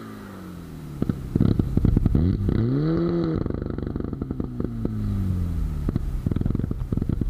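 Rally car engine revving hard, its note climbing and dropping through gear changes, with a dense crackle throughout. Around the middle the revs peak, then the note slides down.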